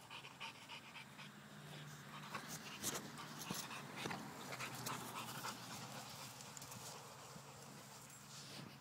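Dog panting in quick, even breaths, with a steady low hum underneath.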